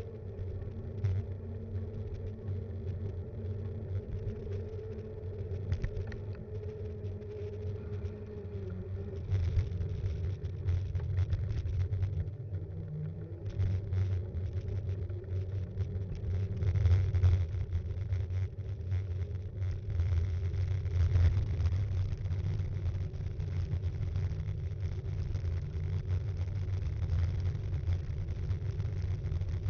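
Steady low rumble of wind and road noise on an action camera mounted on a moving Btwin Rockrider 5.1 mountain bike, with many small knocks and rattles from the bike and mount jolting over the surface.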